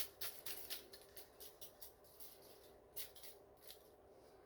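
Faint rustling and light scratching of hands rubbing dry barbecue rub over raw ribs, a scatter of soft ticks that thin out after the first couple of seconds.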